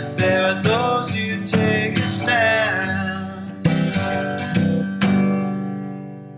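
Acoustic guitar strumming under a sung voice that draws out the end of a line for about three seconds. A few more strums follow, and the last chord rings out and slowly fades.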